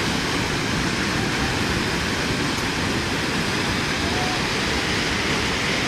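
Swollen river floodwater rushing past in a steady, unbroken wash of noise.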